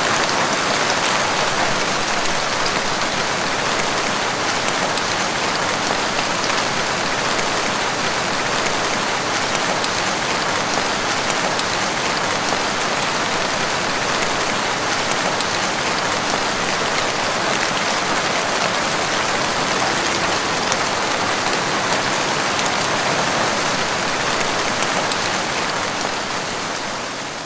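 Steady rain falling on leafy plants, an even hiss of drops that holds level and fades out near the end.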